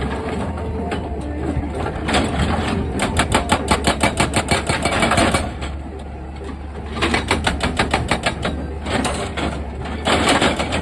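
Excavator running steadily, with two bursts of rapid mechanical knocking or rattling, about seven strikes a second, each lasting a couple of seconds.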